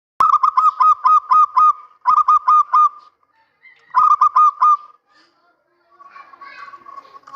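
Male zebra dove (perkutut) cooing in three quick runs of short staccato notes: about seven notes, then two shorter runs of about four, with faint background sounds after about six seconds.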